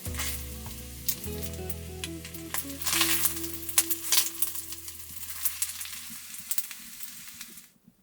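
Food sizzling in a hot pan, a steady hiss with scattered sharp pops, cutting off suddenly near the end.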